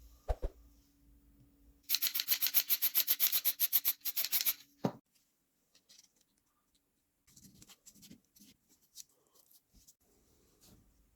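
Rapid back-and-forth abrasive rubbing strokes worked by hand, about seven strokes a second for a couple of seconds, ending in a single knock; after that only a few faint scrapes and light clicks.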